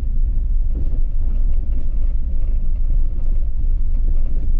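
A vehicle driving on an unpaved mountain road: a steady low road rumble with faint light rattles.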